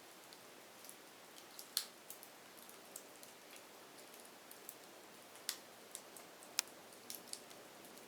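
Firewood crackling: a low steady hiss with irregular sharp pops and snaps, the two loudest about two seconds in and late on.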